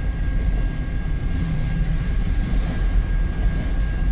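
CN freight train of empty autorack cars rolling slowly past, a steady low rumble.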